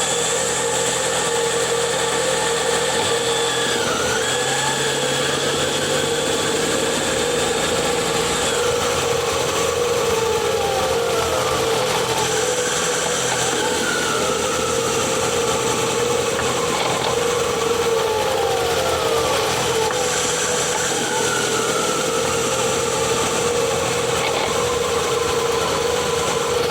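2021 Ford Kuga PHEV's HF45 e-CVT transmission heard close up while driving: a steady hum with whining tones that slide up and down in pitch and a high whine that comes and goes. It is the odd rotational noise that appeared after a flywheel change, which the owner thinks may come from motor generator 1.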